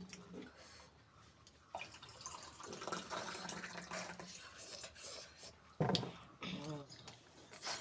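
Close-up eating sounds of someone chewing pork trotters with rice: irregular wet clicks and smacks of the mouth, with a louder burst about six seconds in.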